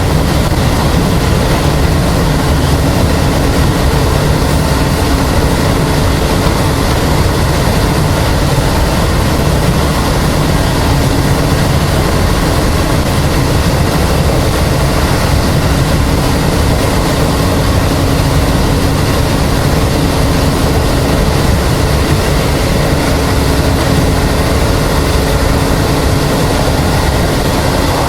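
Hokuso 7260-series (ex-Keisei 3300) electric commuter train running at a steady speed, heard from inside the car: continuous wheel-on-rail rumble with a steady motor and gear hum that fades briefly about halfway through.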